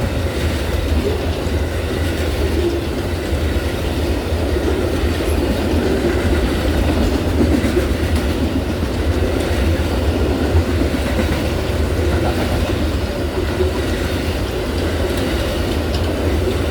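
Amtrak Auto Train's long string of railcars rolling past at speed: a steady, loud rumble of steel wheels on the rails with some clickety-clack.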